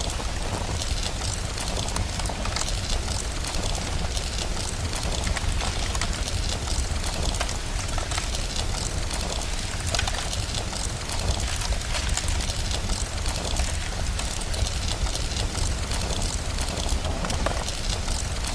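Steady rain with a deep low rumble underneath, mixed with a crackling wood fire that gives many small, irregular pops.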